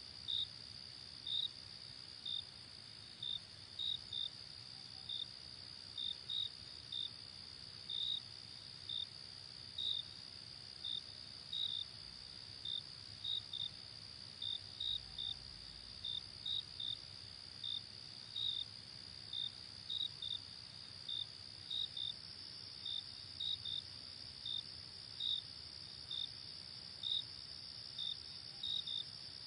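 Night insects, crickets by the sound of it: a steady high-pitched trill with short separate chirps over it, about one or two a second at uneven spacing.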